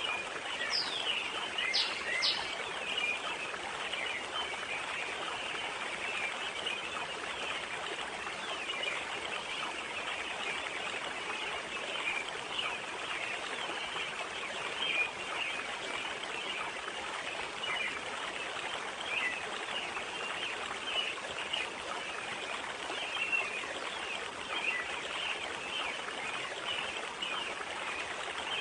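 Forest pond ambience: a steady hiss of running water with a dense haze of high chirping throughout. A few sharp, sweeping bird calls stand out about one to two seconds in.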